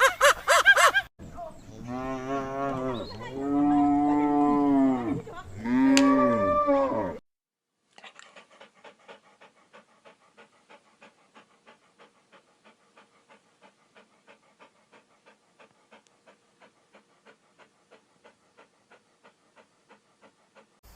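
A cow mooing: three long calls, each rising and then falling in pitch. They are followed by a faint, regular ticking, about three ticks a second, that goes on to the end.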